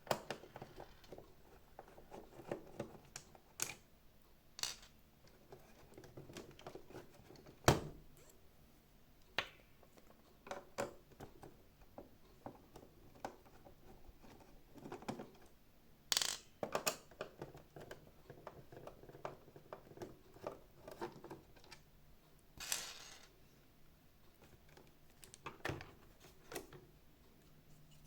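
Scattered clicks, taps and short scrapes of hands and small tools working on the plastic housing and parts of a robot vacuum during disassembly, with one sharp knock about eight seconds in.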